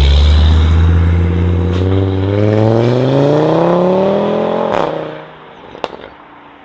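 Audi RS3's five-cylinder engine through a full Armytrix exhaust, accelerating hard with its pitch rising steadily for a few seconds. About five seconds in it lifts off with a sharp crack, then drops away to a much fainter sound with one more pop about a second later.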